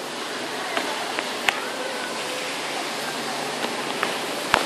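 Heavy rain falling, a dense steady hiss, with a few sharp taps, the loudest just before the end.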